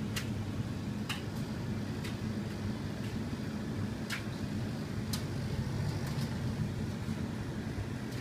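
Electrolux EDH3284PDW heat pump tumble dryer running, with a steady low hum. Short sharp clicks come every second or so for the first half, as the tumbling load knocks against the drum.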